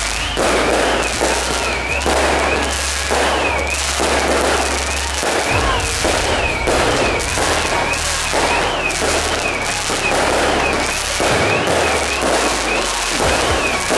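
Ground fireworks firing: dense crackling and fizzing that pulses in waves, with a high whistle rising and falling over and over, about every three-quarters of a second.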